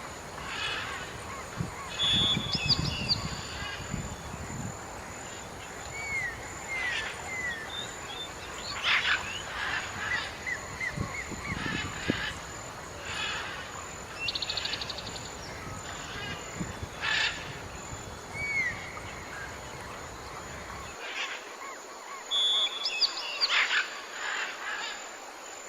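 Several wild birds calling: scattered short chirps and sharp calls, with a quick trill about halfway through. A faint, steady high-pitched tone runs underneath.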